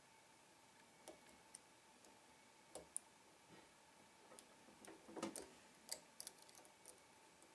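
Faint, irregular metallic clicks of a lock pick working the pins of a Trioving 5632 padlock, with a cluster of clicks about five to six and a half seconds in.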